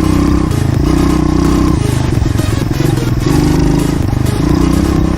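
Pit bike engine running while being ridden, the revs rising and easing off several times.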